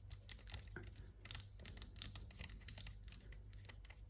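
Faint, irregular small clicks and scrapes of a screwdriver and screw being worked on the burr assembly of a Eureka Mignon coffee grinder.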